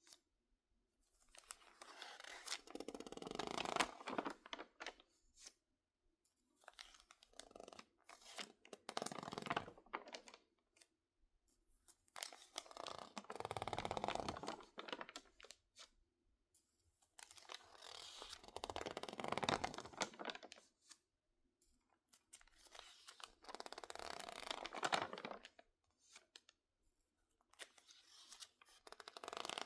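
Stiff, crinkled pages of a water-damaged magazine being handled, squeezed and turned, in six bursts of crackling and crinkling about five seconds apart, with short quiet pauses between.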